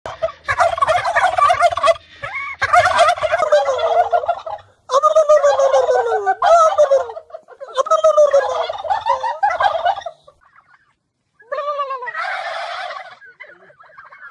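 Turkeys gobbling: a run of loud, rapid, warbling gobbles repeated in about six bursts with short pauses between them.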